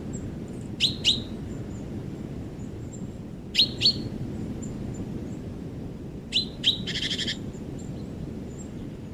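A bird calling in short, sharp, downward-sweeping notes given in pairs, three pairs about three seconds apart, the last pair followed by a short buzzy note. A steady low rumble runs underneath.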